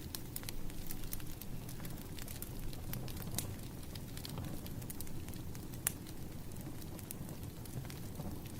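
Burning firewood crackling: a steady low rumble of the fire with scattered sharp pops and snaps, one louder snap about six seconds in.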